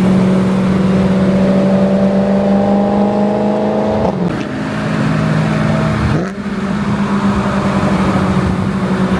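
Car engine pulling under acceleration while driving: its pitch climbs steadily, drops with a gear change about four seconds in, and dips again with another shift about two seconds later before settling into a steady drone.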